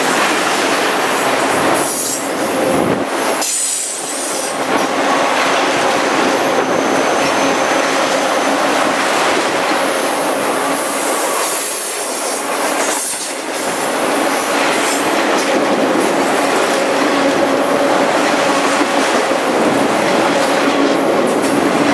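Freight train of autorack cars rolling past close by on a curve: steady wheel-on-rail noise with the wheel flanges squealing against the curved rail. Higher squeals swell and fade, about two seconds in and again around the middle.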